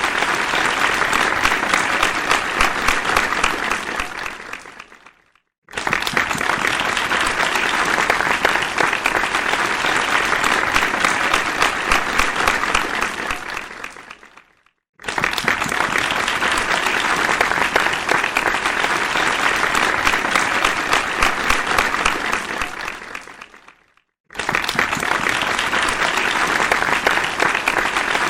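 Crowd applause, dense many-handed clapping. It dies away to silence three times, about every nine seconds, and each time starts again abruptly at full strength.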